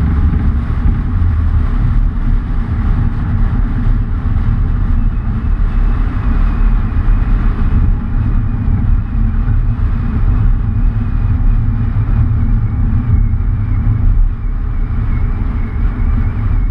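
A motor vehicle running, a loud steady low rumble.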